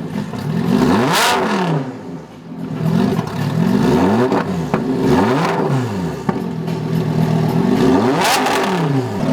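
A performance car's engine being revved repeatedly through its exhaust. The pitch climbs and falls again several times, one rev blip every second or two.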